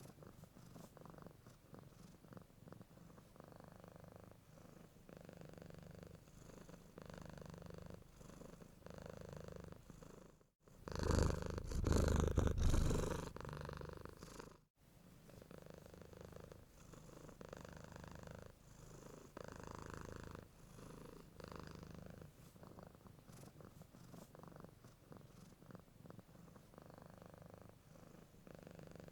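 Domestic cat purring in a steady pulsing rhythm. About ten seconds in, a much louder, closer stretch of purring lasting about four seconds is cut in abruptly between two brief dropouts.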